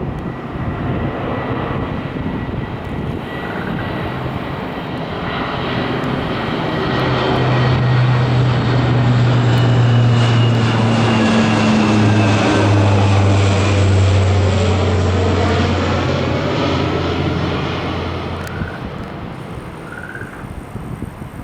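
Low-flying US military aircraft passing overhead: its engine noise builds to a loud peak, the low engine tones drop in pitch as it goes by, then fade away.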